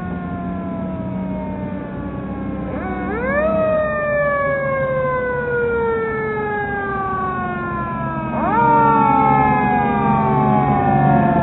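Federal Q mechanical siren on a fire truck winding up quickly twice, about three seconds in and again about eight and a half seconds in, each time coasting down in a long, slowly falling wail. A steady low drone runs under it at the start and returns near the end.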